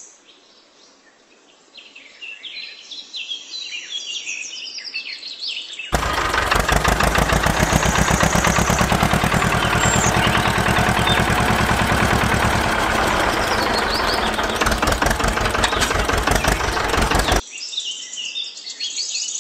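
Birds chirping, then an engine starts abruptly about six seconds in and runs loudly with a fast, even beat for about eleven seconds. It cuts off suddenly and the birdsong returns.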